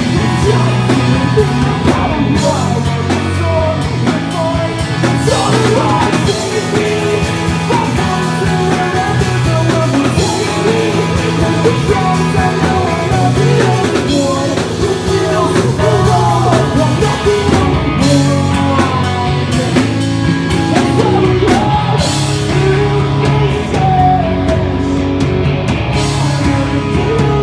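A pop-punk band playing live: electric guitars, bass and drum kit, with a singer's voice carrying a melody over them throughout.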